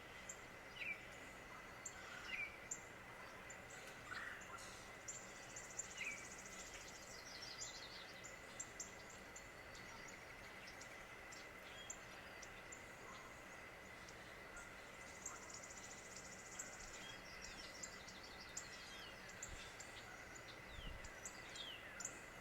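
Birds chirping: many short, high chirps scattered throughout, with two rapid high trills, one about a third of the way in and one about two-thirds in. Underneath runs a steady high-pitched whine and a faint background hiss.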